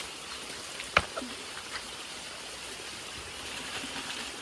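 Steady rush of running water from a small stream, with one sharp knock about a second in.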